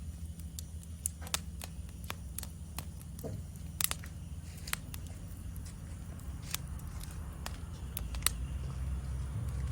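Wood fire burning in a fire stand, crackling with irregular sharp pops over a low rumble of flame. A faint steady high insect chorus runs beneath it.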